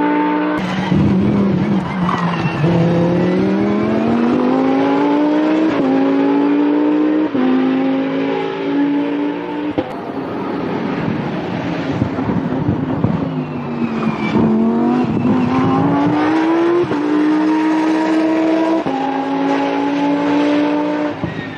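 Lamborghini Essenza SCV12's naturally aspirated V12 at full throttle on track, its pitch climbing and dropping sharply at each upshift, several times over. About halfway through it eases off and its pitch falls, then it pulls up through the gears again.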